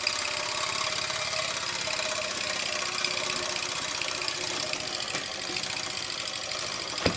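Mamod TE1A live-steam model traction engine running in reverse, its small steam engine chuffing with a fast, even beat. The owner says it is not at its best running backwards. A single sharp click comes near the end.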